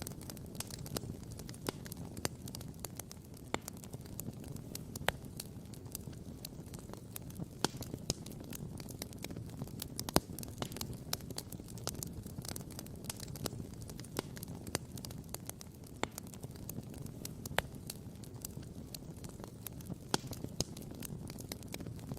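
Wood campfire crackling and popping, many sharp snaps scattered irregularly, a few louder pops standing out, over a steady low rushing sound.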